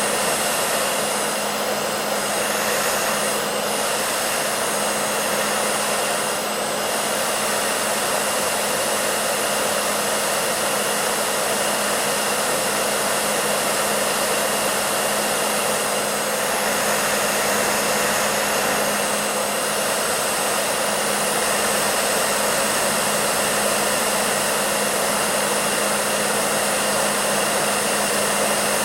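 Hair dryer running steadily: an even blowing rush of air over a constant motor hum.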